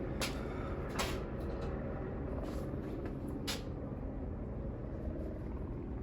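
A handful of short knocks and clunks of engine parts being handled, spread over the first few seconds and loudest about a second in, as the intake manifold comes off a Ford 302 Windsor V8 block. A steady low hum sits underneath.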